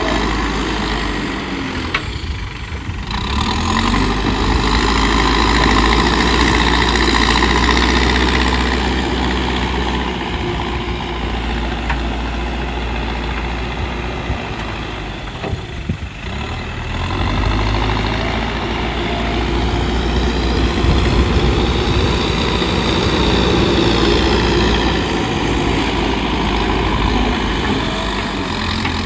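Diesel engine of a JCB backhoe loader running steadily. It rises in loudness and pitch twice under hydraulic load as it works, and drops back in between, with a brief lull about two seconds in and another about halfway through.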